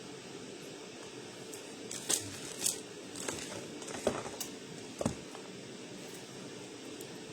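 Steady low hiss with a handful of short crinkling and rustling handling noises clustered between about two and five seconds in.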